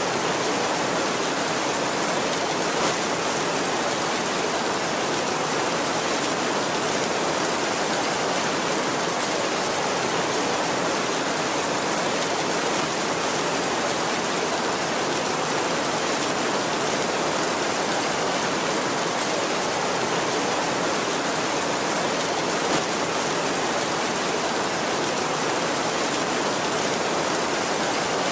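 Heavy rain drumming steadily on a tin roof, an even dense hiss, with a couple of single sharper drop ticks standing out.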